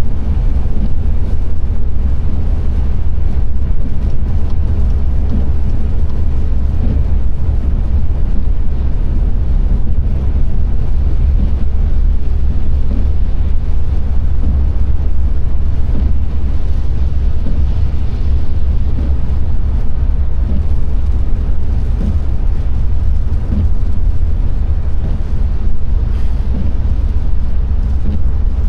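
Car driving: a steady, loud low rumble of engine and tyre noise on the road.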